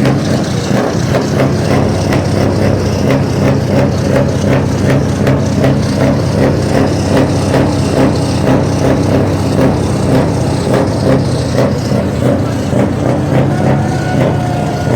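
Heavy truck diesel engine running steadily at a low, even speed, with a light regular ticking over the hum.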